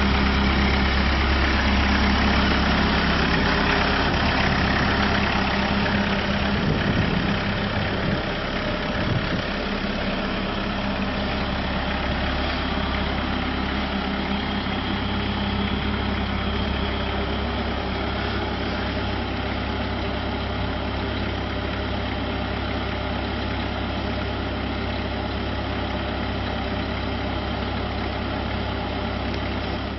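JCB 515-40 compact telehandler's engine running at a steady idle, a little louder in the first several seconds before settling to an even level.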